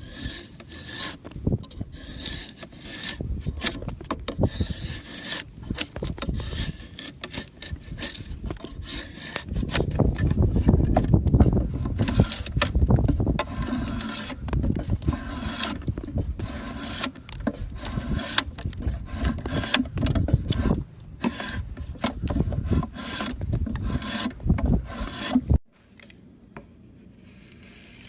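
Wood being carved: a tool scrapes and shaves across wood in quick, irregular strokes like rasping. The strokes stop abruptly near the end, leaving a much quieter stretch.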